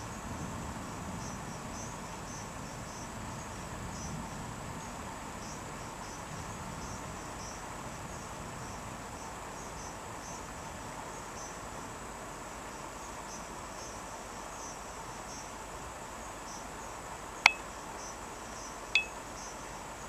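Crickets chirping in rapid, steady pulses over a constant hiss of night ambience, with a faint low rumble fading in the first few seconds. Two sharp clicks near the end, a second and a half apart, are the loudest sounds.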